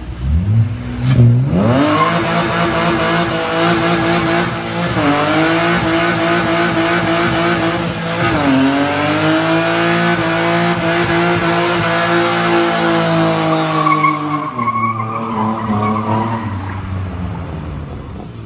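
BMW E30's M50B20 inline-six revved up hard and held high while the rear tyres spin and squeal in a burnout, the revs dipping briefly twice. About fourteen seconds in the tyre noise stops and the engine falls back and fades.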